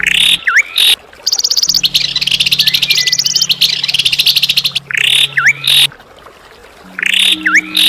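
Songbird giving harsh, rapid chattering trills in about four loud bouts, each with a quick dipping note, separated by short pauses. This is the kind of rough 'kasaran' call used as masteran to tutor white-rumped shamas.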